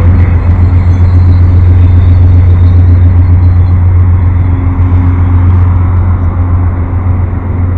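Amtrak passenger train pulling out, a steady low diesel locomotive rumble with the noise of the cars rolling by.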